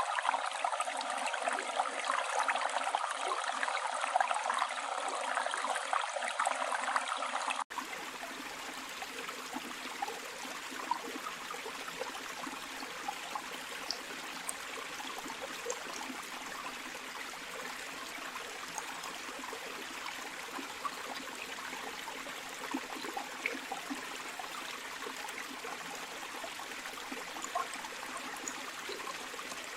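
Steady rushing and babbling of a flowing river. About eight seconds in, the sound switches abruptly from a brighter, louder rush to a quieter, fuller flow with small splashes and drips.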